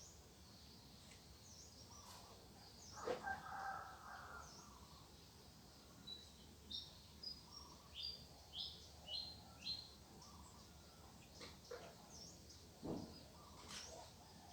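Faint songbirds chirping outdoors, with a quick run of short, high repeated notes in the middle. A louder, lower call comes about three seconds in, and a few sharp clicks near the end.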